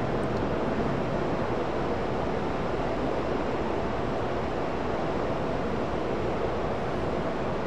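Steady rushing rumble of trains running in the distance, mixed with wind on the microphone.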